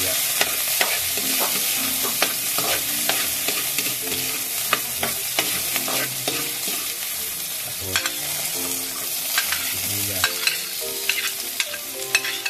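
Chopped garlic and ginger frying in a little oil in a metal wok: a steady sizzle, with the metal spoon clicking and scraping against the pan as it is stirred.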